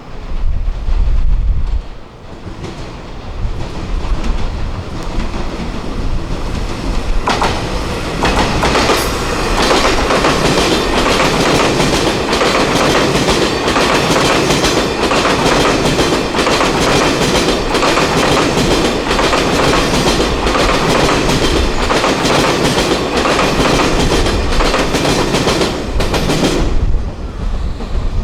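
A train passing close by, its wheels clattering over the rail joints in a steady repeating rhythm. The clatter builds about seven seconds in and cuts off sharply near the end.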